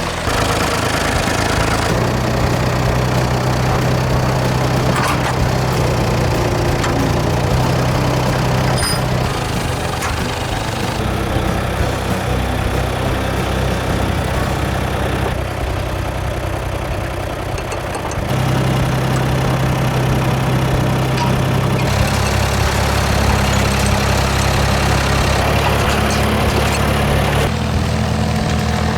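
Farm tractor engine running steadily while pulling a hay rake, its engine note shifting several times.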